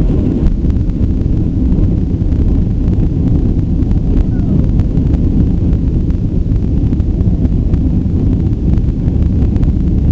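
Loud, steady low rumble inside the cabin of a Boeing 757-300 on its landing roll just after touchdown: engine and wheel noise on the runway, with faint knocks throughout.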